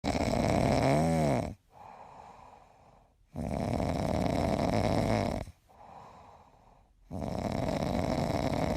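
A sleeping pet snoring: three loud, rasping snores about three and a half seconds apart, each followed by a quieter breath out.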